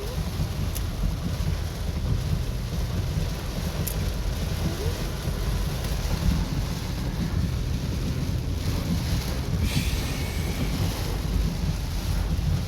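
Heavy rain on a car and tyres swishing through standing floodwater, heard from inside the car as a steady rumbling hiss. A brief louder hiss comes about ten seconds in.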